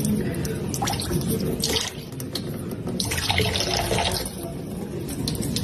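Running water, with louder splashy stretches about a third of the way in and again past the middle.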